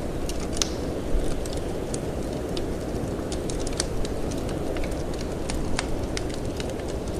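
Wood fire crackling with frequent sharp pops and snaps, over a steady low rush of wind.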